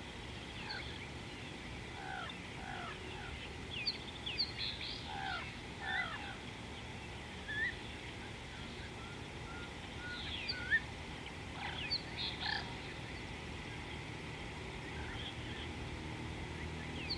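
Several wild birds calling: short chirps and quick rising and falling notes, scattered in little clusters, over a steady low background hum.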